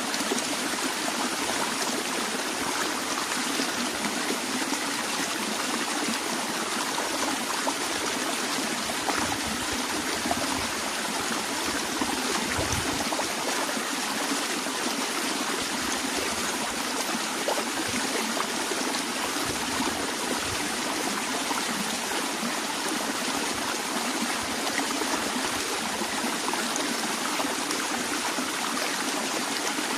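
Small stream flowing steadily, an even rushing water sound with fine trickling and babbling detail.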